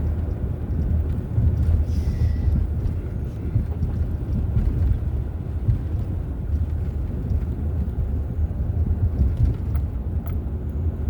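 Steady low rumble of a van's engine and road noise, heard from inside the cab while driving slowly.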